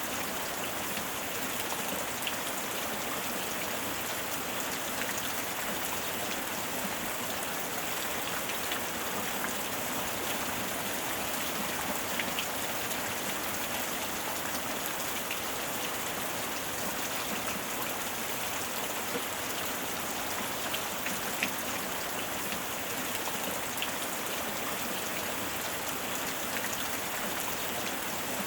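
Steady heavy rain falling, an even hiss of rain with scattered faint drop ticks.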